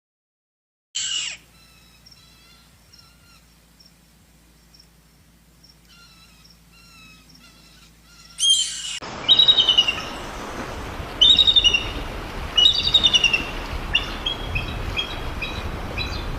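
Birds calling with high chirps: faint, thin whistled chirps at first, then, after a sudden change about halfway, louder bursts of rapid repeated chirping over a noisy background.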